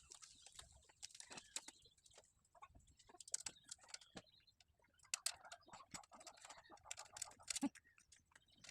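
Faint, scattered clicks and taps of small parts being handled while a screw is fitted on a portable butane stove.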